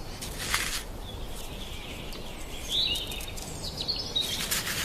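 Quiet outdoor ambience from a rabbit sound clip: faint bird chirps and a few soft clicks over steady background noise.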